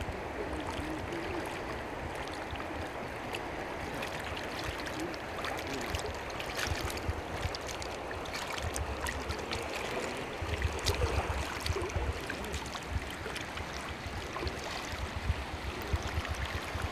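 Water flowing and gurgling, steady throughout, with scattered small clicks and irregular low rumbles.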